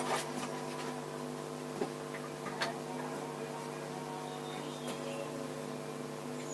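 Steady electrical mains hum, with a few light clicks and taps from small parts being handled, the sharpest about two seconds in.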